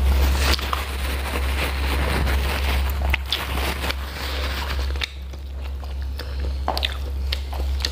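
A person chewing and biting food, with wet mouth sounds and scattered sharp clicks, over a steady low hum. It gets quieter about five seconds in.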